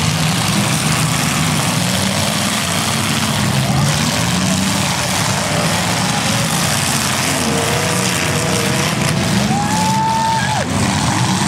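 Demolition derby cars' engines running and revving together in a loud, steady din. A single held high tone rises, holds and drops off about ten seconds in.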